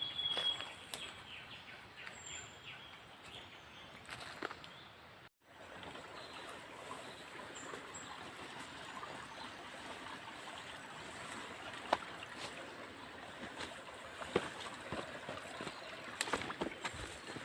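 Forest ambience: a steady hiss like distant running water, with scattered light clicks and a short high bird whistle at the very start. The sound drops out completely for a moment about five seconds in.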